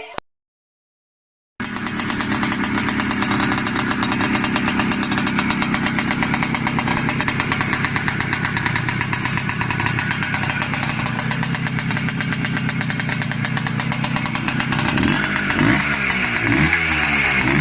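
Motorcycle with an IZh Planeta Sport single-cylinder two-stroke engine running at a steady idle, revved up and down a few times near the end.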